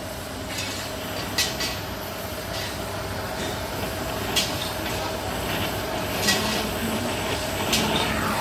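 Steady machine hum with a faint constant tone, broken by four sharp clicks or knocks at uneven intervals.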